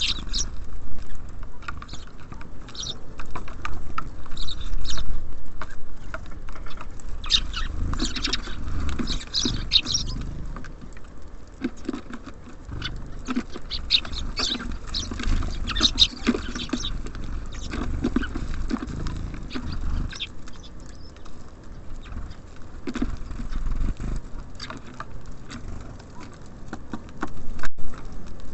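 Small birds feeding at a bird feeder: a busy run of light pecking taps and scratches, with a few short high chirps.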